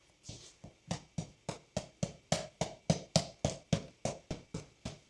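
Rapid, evenly spaced punches striking a punching bag, about three or four sharp hits a second.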